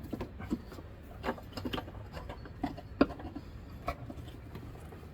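Irregular light clicks and knocks of hoses and fittings being handled in a car's engine bay, the sharpest about three seconds in, over a steady low hum.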